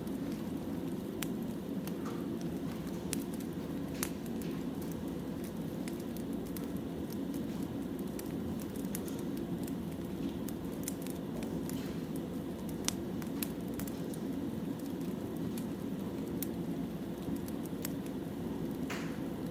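Wood fire burning: a steady low rush with scattered sharp crackles and pops from the burning logs.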